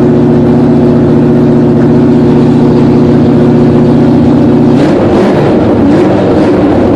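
A 1966 Plymouth Valiant's engine running at a steady held speed during its break-in run. About five seconds in, its note changes and turns rougher and less even.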